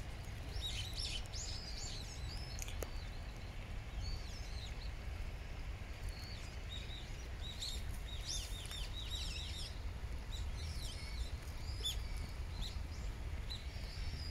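Small songbirds chirping and twittering, many short quick calls coming in clusters, over a steady low rumble.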